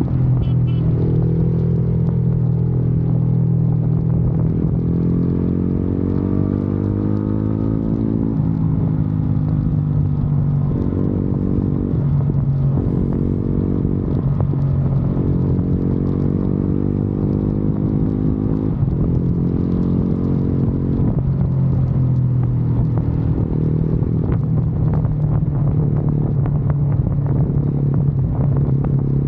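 Motorcycle engine running under way, its pitch climbing as it pulls and falling back at each gear change, several times over.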